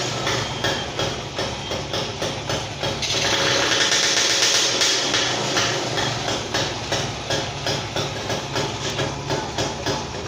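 Kawasaki motorcycle engine running at an uneven idle with a steady knocking beat about three to four times a second, revved up briefly about three seconds in, while it is being tuned by hand at the engine.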